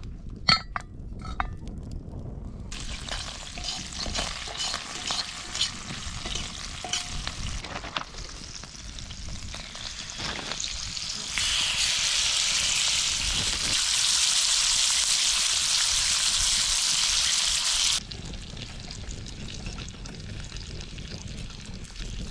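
Butter sizzling and frying in a cast iron skillet, with a few clinks at the start. The sizzle swells louder from about a third of the way in and drops back suddenly near the end.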